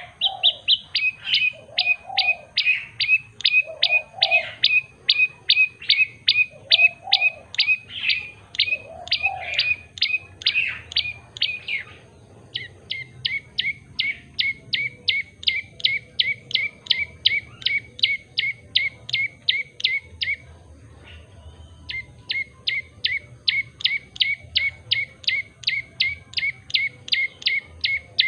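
Common tailorbird singing: long runs of rapid, sharp, repeated notes, about three a second, broken by two short pauses, one about twelve seconds in and one about twenty seconds in. Five lower, softer calls sound underneath during the first ten seconds.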